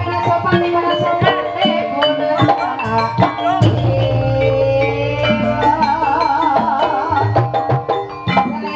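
Live ebeg dance music from a Javanese percussion ensemble: struck tuned notes and drum strokes in a dense, steady flow. A wavering melodic line rises above it about six seconds in.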